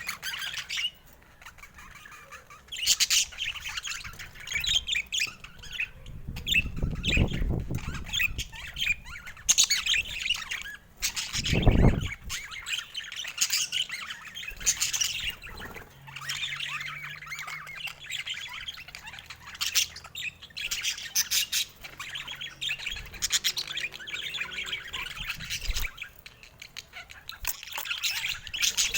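Budgerigars chattering with rapid chirps and squawks, with a couple of low thuds about a quarter and two fifths of the way through.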